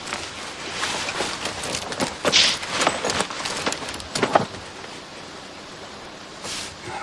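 Irregular rustling and crackling in jungle undergrowth, busiest from about a second in to about four and a half seconds, then dying down to a quiet steady background.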